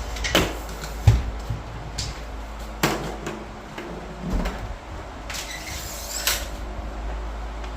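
Scattered knocks and clunks from handling building materials, with a short scraping rush near the end.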